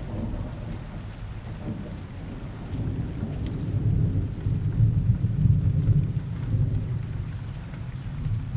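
Rain falling steadily with a low roll of thunder that swells a few seconds in and then fades.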